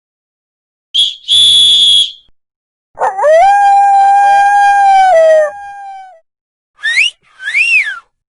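A run of short sound effects. First a brief steady high tone with hiss, then a long held howl-like call that drops in pitch at its end, then a two-part whistle that rises, then rises and falls.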